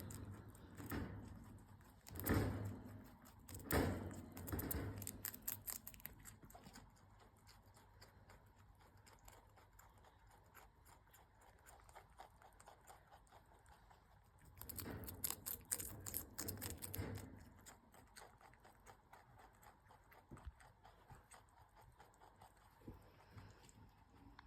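Pet rabbit chewing a snack: faint, rapid crunching clicks, louder in two stretches, a few seconds in and again past the middle.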